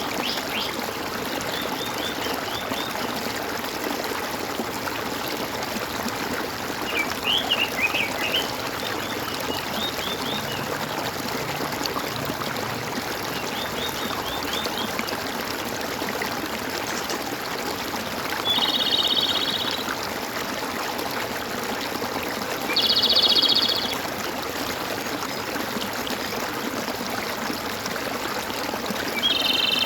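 Water gurgling and trickling steadily, with birds calling over it: scattered quick series of high chirps in the first half, then three louder buzzy trills of about a second each, the last near the end.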